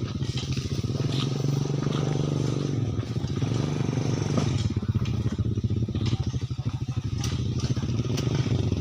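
An engine running steadily with a fast, even firing beat, with a few scattered clicks over it.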